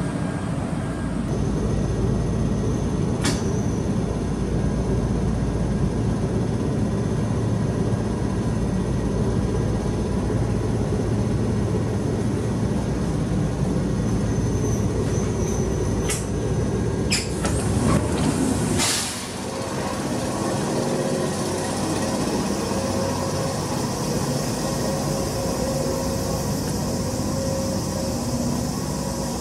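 Former Keihan 3000 series electric train at a station: a steady running rumble and hum with a few sharp clicks. About two-thirds of the way through comes a louder hissing surge, typical of air brakes. After it the rumble drops and a steady hum remains.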